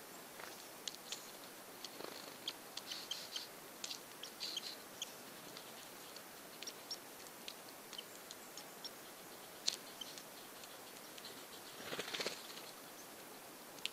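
A female hairy woodpecker at a hand-held suet chunk: scattered short, sharp high ticks, some in quick little clusters, with a brief rustle about twelve seconds in.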